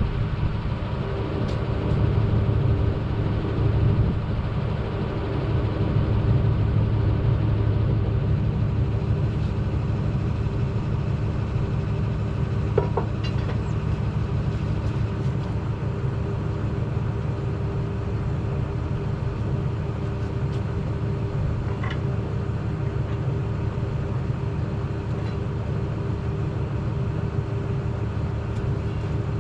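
An engine running steadily at a constant speed, with a deep rumble and a few faint clicks over it.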